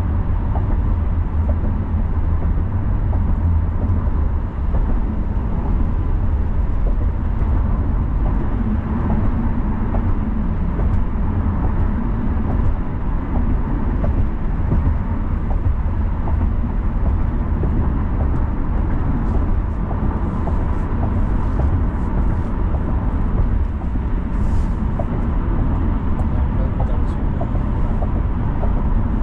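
A car driving along at a steady pace: a continuous low rumble of road, tyre and engine noise that holds even throughout.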